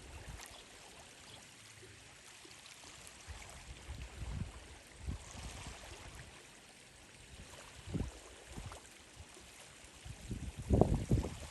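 Steady running water, broken by a few short low thumps that are loudest near the end.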